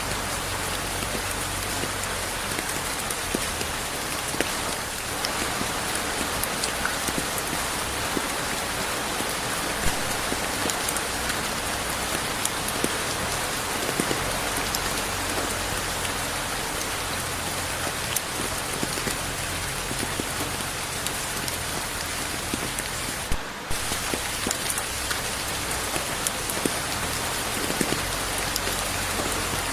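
Steady rain falling, with no thunder, and scattered individual drops ticking. About three-quarters of the way in it drops out for a moment.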